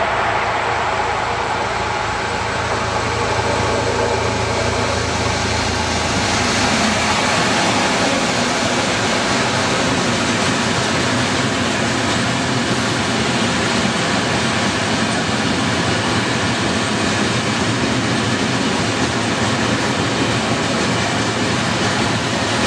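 Freight train rolling past at close range: a loud, steady rumble and rattle of its wagons' wheels on the rails. A low hum fades out about six seconds in.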